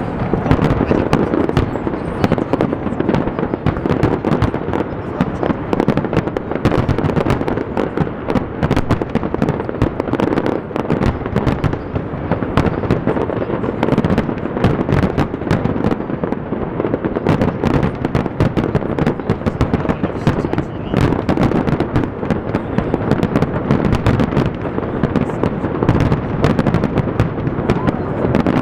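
Aerial fireworks display in its finale: a dense, unbroken run of bangs and crackling bursts going off in quick succession.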